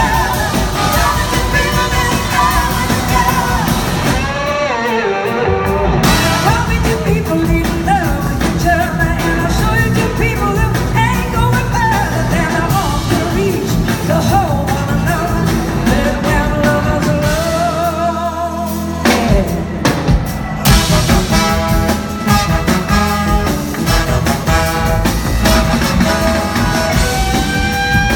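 A rock-soul band playing live, with a lead vocal singing over the full band. About eighteen seconds in the band briefly thins out, then comes back in fully.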